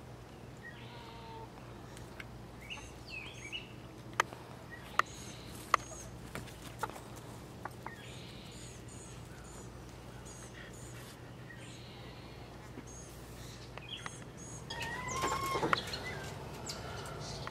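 Chickens clucking and chirping softly, with a few sharp clicks in the middle and a louder run of clucks near the end.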